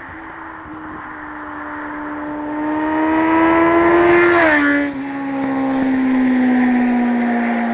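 Sport motorcycle passing by at a steady speed. Its engine note grows louder and slowly rises as it approaches, peaks about four and a half seconds in with a sudden drop in pitch as it goes past, then carries on at the lower pitch as it moves away.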